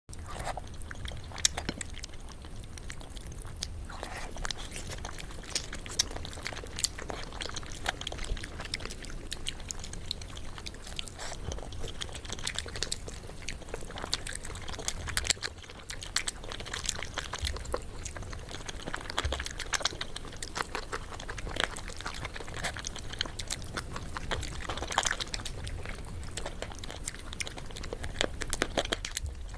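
Close-up ASMR eating sounds of chicken being bitten and chewed: a constant run of short wet mouth clicks and smacks, with occasional louder sharp ones.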